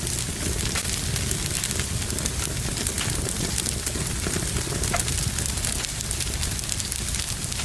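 A fire burning in a fireplace, crackling steadily with many small, irregular pops over a low rushing rumble of flame.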